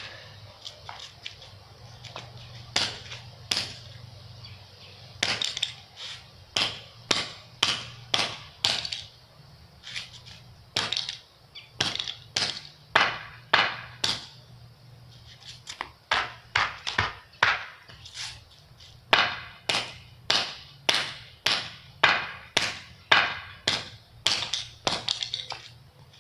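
A hockey stick repeatedly whacking a toy race car: dozens of sharp hits in runs of one to two a second, with short pauses between runs. The blows land on the toy's clear window, which holds up and is only slowly breaking.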